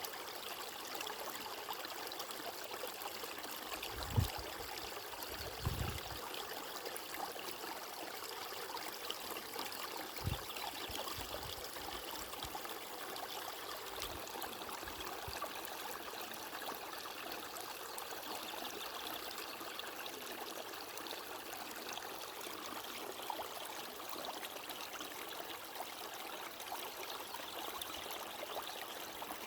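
Flowing stream water, a steady, even rush and trickle. A few soft low thumps come in the first half.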